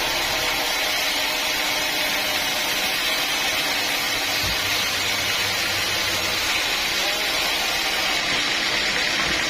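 Band sawmill running with a steady, even noise that holds the same level throughout.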